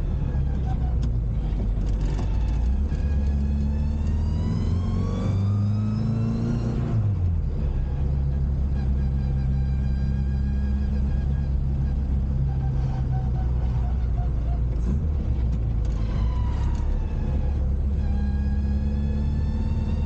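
Modified classic Mini's engine and Maniflow exhaust under way. The note climbs steadily for several seconds, drops sharply about seven seconds in, as at a gear change, holds steady, then dips again near the end.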